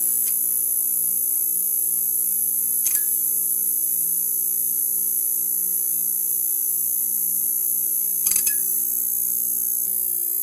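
Neon sign buzzing: a steady electrical hum under a high hiss, broken by a brief crackle about three seconds in and a short cluster of crackles about eight seconds in.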